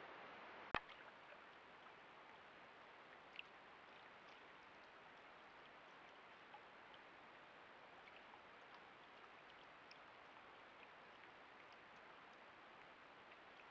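Near silence: a trail camera's faint steady hiss, with one sharp click just under a second in and a few faint ticks after.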